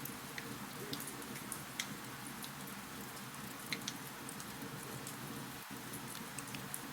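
Wood fire crackling in a fireplace: a steady hiss with scattered sharp pops, two louder ones about two and four seconds in.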